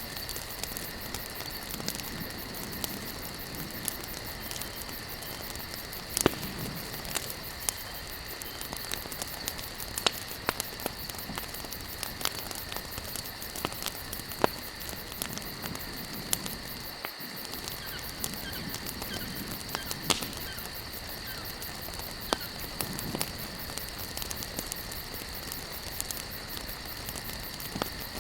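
Wood campfire burning, with frequent sharp crackles and pops over a steady hiss. A steady high-pitched insect chirring runs behind it.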